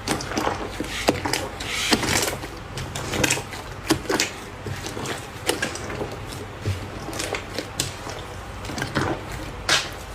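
Slime being squeezed and poked by hand, giving a steady run of irregular clicks, pops and squishes.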